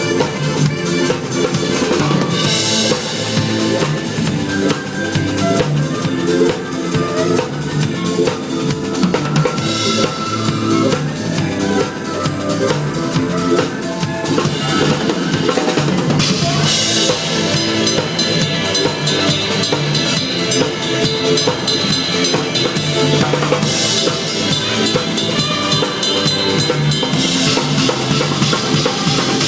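Drum kit played in a busy beat, with bass drum and snare strokes, over a pitched musical backing. The cymbals ring out through most of the second half.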